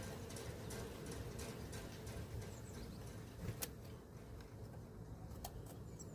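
Small birds at a feeder: irregular light tapping and clicking of pecking and hopping, with a couple of sharper clicks and one or two faint high chirps.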